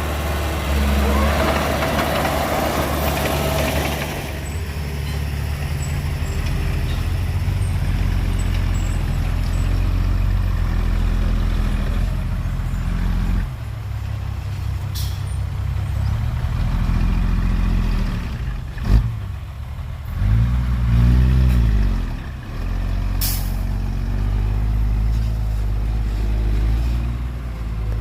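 Heavy diesel engines of a bulldozer and dump truck running steadily, with a rushing hiss in the first few seconds. A sharp knock comes about two-thirds of the way in, followed by an engine revving up and back down.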